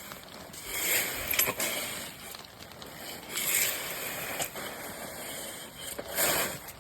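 Three rough scraping swishes, about two and a half seconds apart, of a tool or board being drawn over sand.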